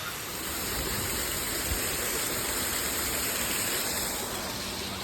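Steady rush of water falling from an artificial waterfall. A high, even hiss rides above it and stops about four seconds in.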